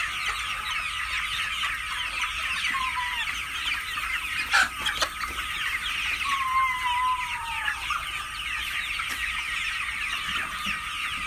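A flock of Vanaraja (Banraj) chickens calling together: a dense, steady chorus of short, overlapping high-pitched chirps. A couple of longer calls fall in pitch, one about a quarter of the way in and one just past the middle. A single sharp tap sounds a little before the middle.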